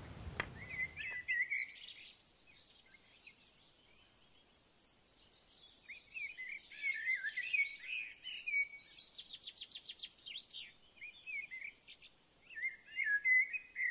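Small birds chirping and twittering in a steady morning birdsong ambience, with a fast trill of repeated notes about ten seconds in. The chirps thin out for a couple of seconds early on and are loudest near the end.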